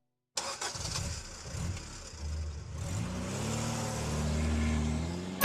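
Car engine heard from inside the cabin while driving, with low road noise; about three seconds in the engine note climbs and then holds steady as the car picks up speed.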